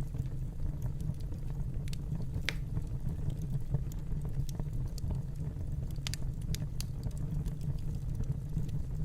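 Fireplace crackling: a steady low rumble of burning with scattered sharp pops, a stronger pop about two and a half seconds in and a little cluster of them around six seconds in.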